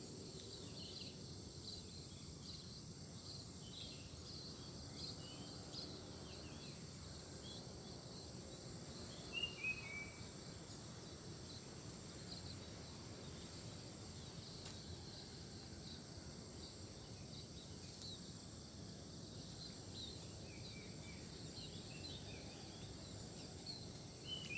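Small birds chirping and twittering, with a short falling run of notes twice, over a steady high insect drone and a low wind-like rumble.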